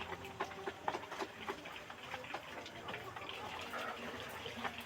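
Kampung chickens clucking softly now and then among many scattered light ticks and taps.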